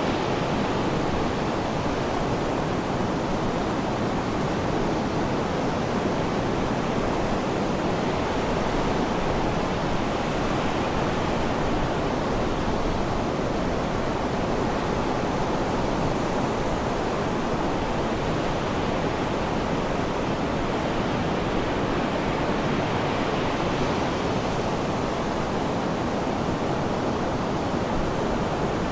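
Sea surf, a steady unbroken rush of water with no distinct swells or breaks.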